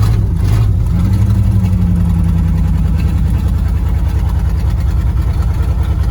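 Old Ford F-250 Highboy pickup's engine idling steadily while it warms up after a cold start; its note shifts slightly about a second in.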